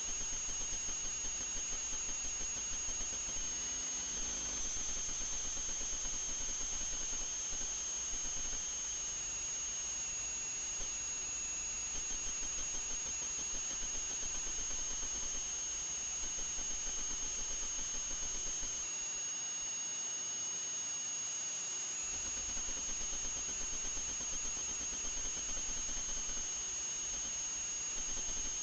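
FPV quadcopter's electric motors and propellers whining steadily at a high pitch over a hiss. The pitch shifts slightly now and then with the throttle.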